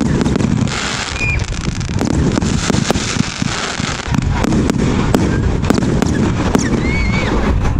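Fireworks display going off: a rapid, irregular string of bangs and crackling over a continuous low rumble. A short whistle rises and falls near the end.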